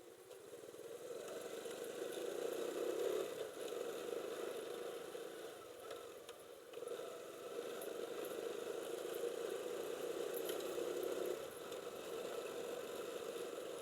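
Small motorcycle engine running while the bike is ridden, growing louder twice and easing off in between.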